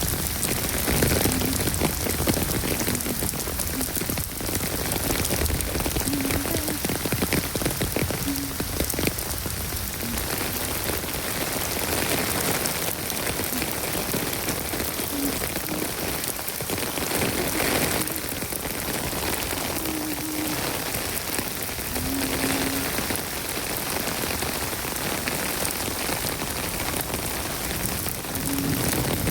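Steady heavy rain falling and pattering on surfaces, a dense even hiss with no let-up.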